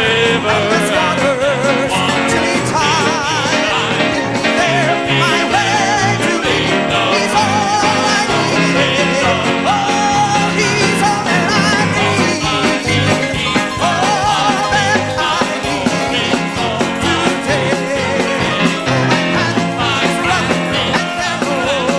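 Gospel music performed by a band, with a wavering lead melody over a steady beat.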